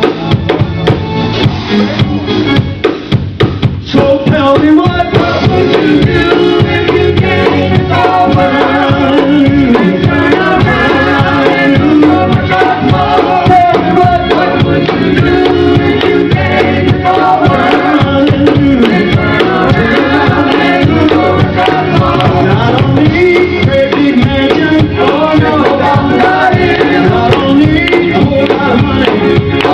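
Live gospel music: a band with drums playing under singers. Sparser drum hits open it, and the full band with the voices comes in about four seconds in.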